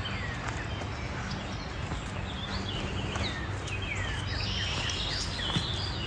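Several birds singing: quick downward-sliding chirps and trills that grow busier in the second half, over a steady low rumble, with one sharp tick near the end.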